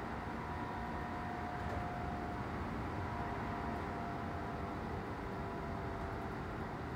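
Kintetsu 2800 series electric train running at speed, heard inside the passenger car: a steady rumble of wheels on rail with a faint whine that slowly drifts lower in pitch.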